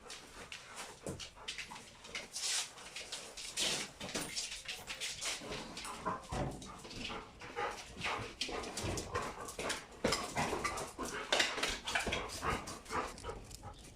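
Dogs whining and yipping in short, irregular calls, one after another.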